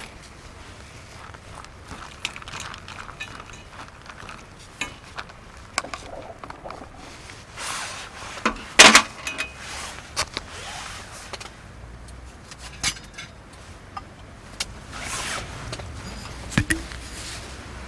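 Scattered light clinks and knocks of camp gear and utensils being handled, with one sharper clatter about nine seconds in, over a low steady background.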